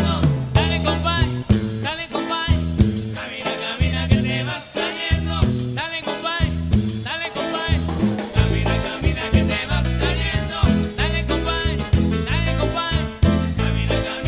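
A band playing an upbeat song with singing over a drum kit and a prominent bass line.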